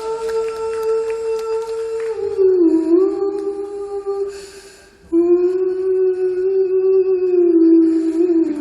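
A singer holding long wordless notes. The first note bends downward about two seconds in and fades away near the middle; after a short intake of breath, a lower note is held steady for about three seconds.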